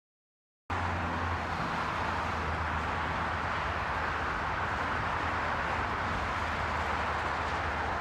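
A steady engine hum under a broad, even rushing noise, cutting in suddenly about a second in.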